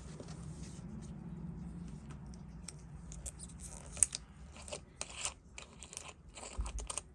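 Small, irregular clicks and taps of metal watchmaker's tools handling an opened wristwatch case, with a sharper click about four seconds in; a low steady hum runs under the first few seconds.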